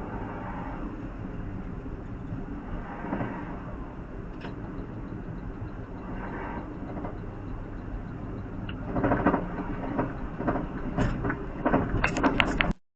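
Steady road and engine noise of a car driving on a toll road, heard from inside the cabin. From about nine seconds in, a run of sharp knocks and clatters, louder than the drone, before the sound cuts off suddenly.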